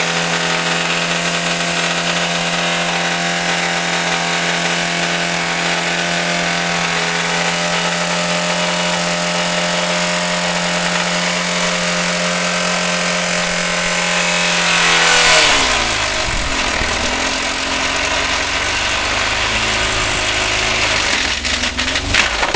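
Skoda engine, run without coolant and on minimal oil, held at steady high revs, then about 15 s in its note collapses with a surge of noise and it runs on rough and low with knocks near the end. This is the engine failing under abuse, in the failure that throws a connecting rod.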